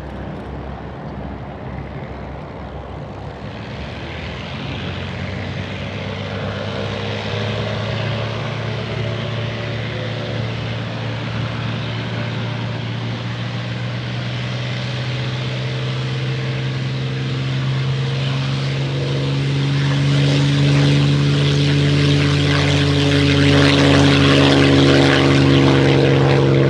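Piston engine of a WWII propeller fighter at takeoff power, with a steady note that grows steadily louder toward the end.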